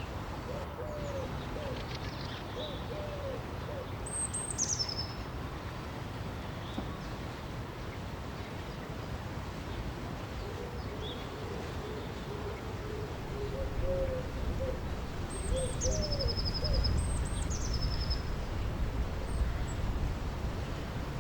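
Wild birds calling over a steady rush of river water. One bird gives short series of low hooting or cooing notes, and a few high whistled calls drop sharply in pitch, about four seconds in and twice near the end. The water grows louder in the second half.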